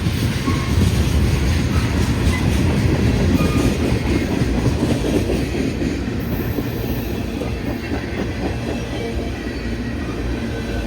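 Long freight train's cars rolling past close by: a steady rumble with wheels clacking over the rail joints.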